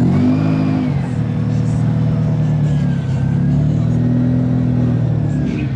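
Car engine running close by, its low exhaust note holding steady with small rises and dips in pitch.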